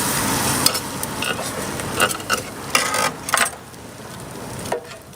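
Food sizzling on a street-food vendor's griddle, with a run of sharp utensil clicks and knocks about two to three and a half seconds in.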